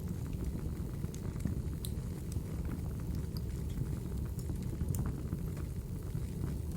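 Logs burning in a fireplace: a steady low rumble of the flames with scattered sharp crackles and pops, two of the louder pops about two and five seconds in.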